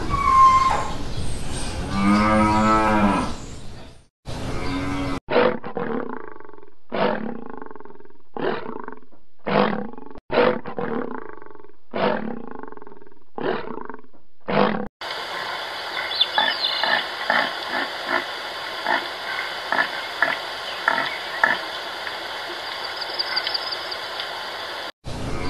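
Cow mooing. Then a lion roaring in a series of about nine short grunting roars, roughly one a second. Then deer calling: short calls about twice a second over a steady hiss, with a few high bird chirps.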